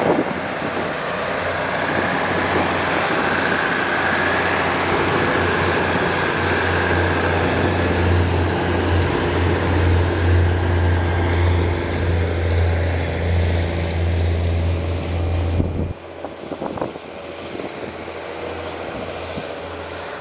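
Diesel railcar train passing close by, its engines running and wheels rolling over the rails with a strong low hum. About three-quarters of the way through the sound drops suddenly as the train moves off, leaving a lower, steady running sound.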